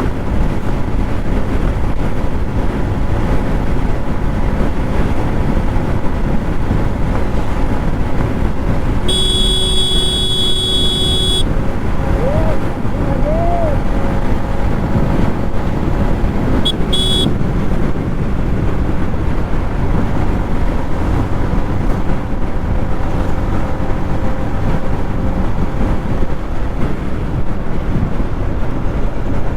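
Yamaha MT-15's single-cylinder engine running at highway speed, with heavy wind and road noise. A vehicle horn sounds for about two seconds near the middle and again briefly a few seconds later.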